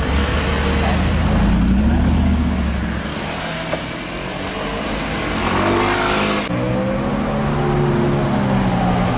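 Mercedes-Benz SLR McLaren Roadster's supercharged V8 with a heavy low rumble as it drives off, its pitch climbing as it accelerates away. After an abrupt cut about six and a half seconds in, a Ferrari's engine runs with a steadier note.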